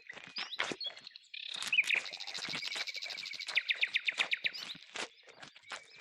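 A bird chirping, breaking into a fast trill of about ten notes a second in the middle, over scattered short knocks.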